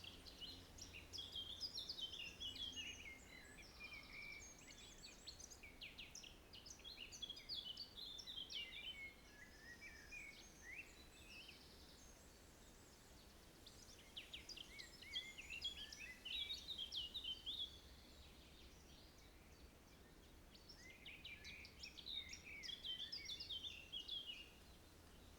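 Songbird singing rapid, varied high-pitched phrases in four bursts of a few seconds each, separated by short pauses, over a faint steady low rumble.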